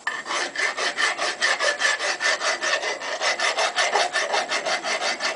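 Hand file rasping over the steel of a railroad-rail anvil in quick, even strokes, with a slight metallic ring. The filing stops abruptly at the end.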